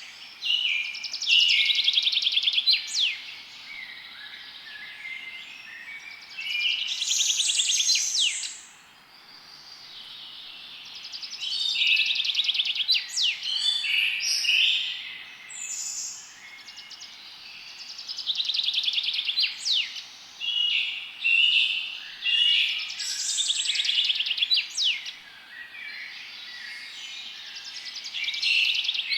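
Songbirds singing in a forest: repeated phrases of rapid high trills and sharp chirps, each a second or two long, coming every few seconds over faint background hiss.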